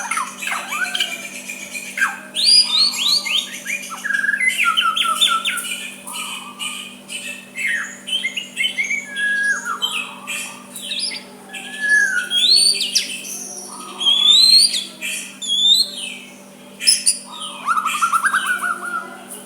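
White-rumped shama (murai batu) singing a varied song of whistled notes, rising and falling glides and fast trills, with a steady faint hum underneath.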